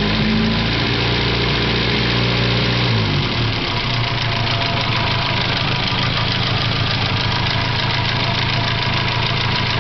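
1949 Crosley's small four-cylinder engine idling steadily, heard up close in the open engine bay; its note drops slightly about three seconds in.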